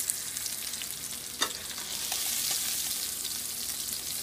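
Salmon pieces frying in oil in a pan: a steady, high crackling sizzle, with one sharp knock about a second and a half in and a few small pops.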